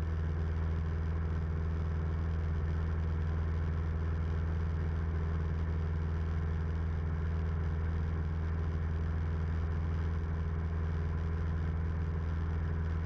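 A 1976 Cessna 172M's four-cylinder Lycoming O-320 engine and propeller running at a steady, even drone, heard from inside the cabin in flight.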